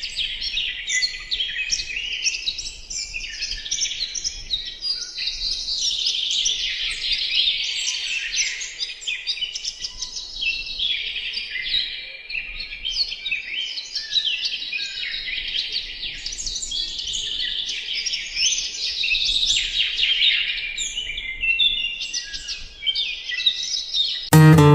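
A dense chorus of many birds chirping and singing at once, high-pitched and continuous, with overlapping short calls and trills.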